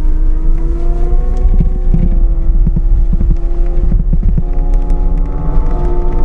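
CAT 299D3 XE compact track loader running with its Fecon forestry mulcher head spinning, a steady machine whine with a deep rumble under it. From about a second and a half to four and a half seconds in comes a run of short low knocks, as from the mulcher striking material.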